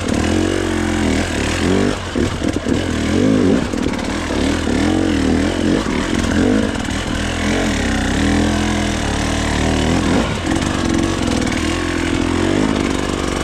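Dirt bike engine revving up and down in repeated throttle bursts, its pitch rising and falling every second or so as the bike is worked through tight switchbacks.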